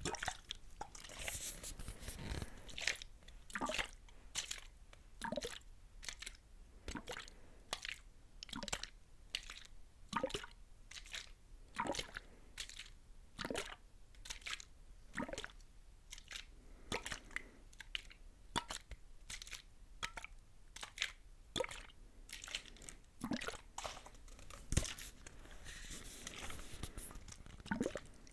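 Close-miked ASMR trigger sounds with no talking: short crisp crackles and scrapes against the microphone, irregular, roughly one or two a second.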